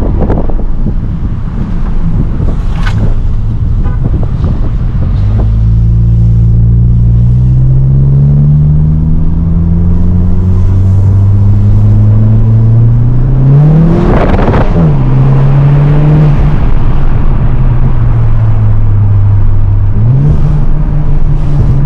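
Mk8 Volkswagen Golf GTI's turbocharged 2.0-litre four-cylinder, on an aftermarket Xforce exhaust with a Milltek downpipe, pulling hard under acceleration. Its note rises steadily for about eight seconds, then a sharp crack comes at the upshift and the pitch drops. The pitch steps up again near the end.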